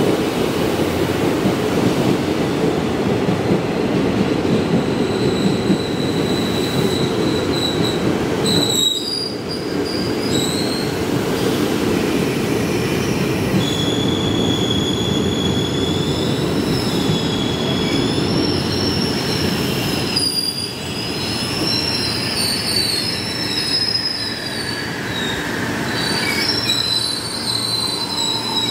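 KRL Commuterline electric commuter train rolling slowly along the platform with a steady low running rumble. Its wheels squeal at several high wavering pitches that come and go, strongest in the second half.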